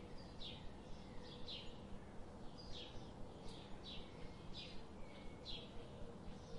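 Faint bird chirping: a short, high, falling chirp repeated about twice a second, over a low steady background hum.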